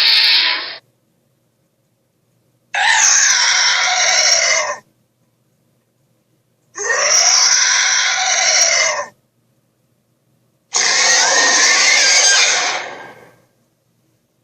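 Cartoon dinosaur screech sound effect, played three times as harsh screeches about two seconds long with silence between. Another screech ends just after the start, and the last one trails off slowly.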